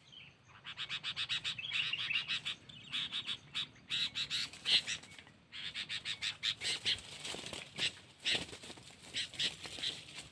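Sooty-headed bulbul (kutilang) giving a fast chattering call: rapid runs of short, sharp notes in repeated bursts with a brief pause midway. This is the agitated call a decoy bulbul uses to challenge rivals.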